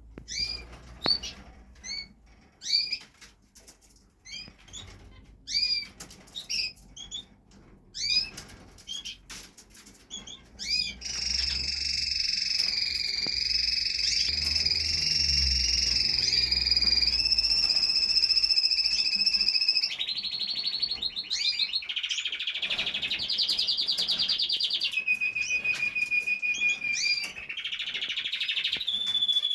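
Canary singing: separate short chirps, about one a second, then, about a third of the way in, a long unbroken song of held trills and rolls that steps to a new pitch several times.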